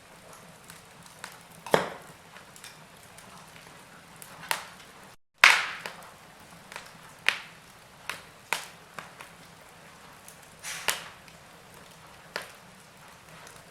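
Wood fire crackling in a fireplace: sharp pops and snaps, irregular, roughly one a second, over a faint steady hiss. The sound cuts out completely for a moment about five seconds in, and the loudest pop comes straight after.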